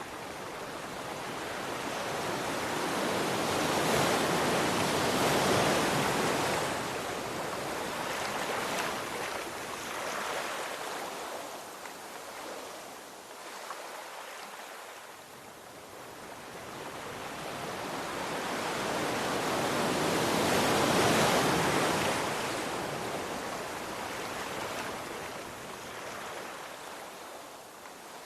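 Ocean waves washing onto a shore: a steady surf hiss that swells twice to a louder crash, about a quarter-minute apart, and slowly eases back between them.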